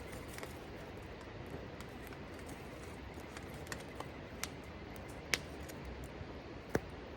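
Wood fire burning in a Picogrill fire pit, crackling with scattered sharp pops, the loudest two a little after halfway and near the end, over a steady low hiss.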